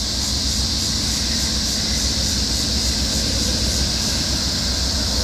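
Norfolk Southern freight train running past, a steady low rumble with a hiss of wheels on rail.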